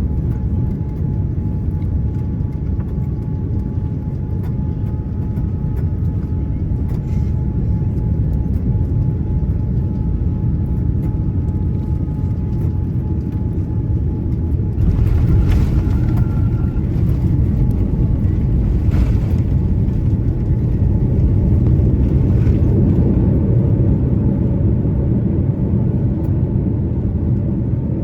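Inside the cabin of a Boeing 787-9: the steady low rumble of its GEnx engines and the airflow, growing louder from about halfway through, with a few short surges.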